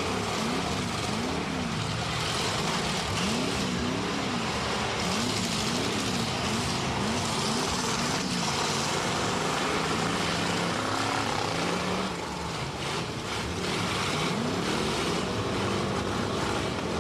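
Demolition derby cars' engines revving up and falling back over and over, several at once, under a thick, steady din.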